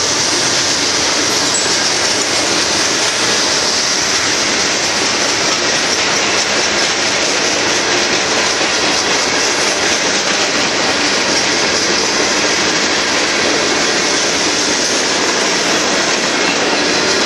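Freight cars of a Union Pacific aggregate train rolling past: steady noise of steel wheels running on the rails, with no change in level.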